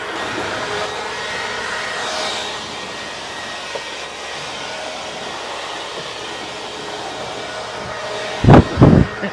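Compressed-air blowgun hissing steadily as it blows dirt off an airplane engine, with two short, loud blasts near the end.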